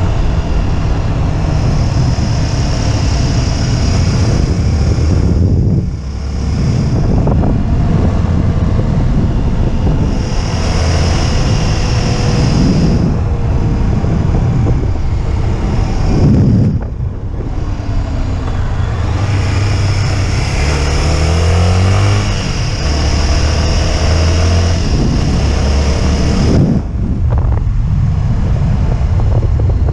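Motorcycle engine running on an off-road ride, its note rising and falling with the throttle, with brief drops in level three times.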